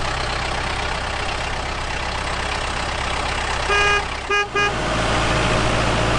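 A vehicle's engine running steadily, with three short horn toots in quick succession a little past the middle.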